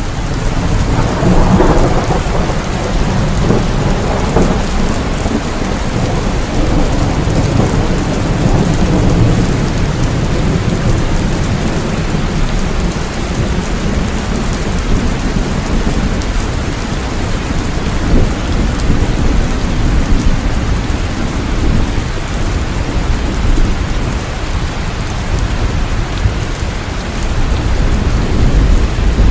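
Steady rain with a long, low rumble of thunder that swells about a second in and keeps rolling.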